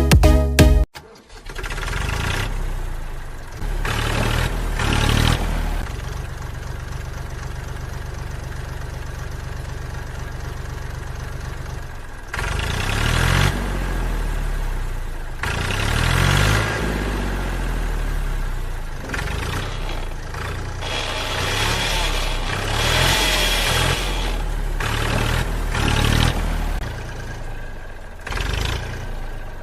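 Small engine of a miniature DIY tractor running: a steady low beat for several seconds, then revving up and down repeatedly.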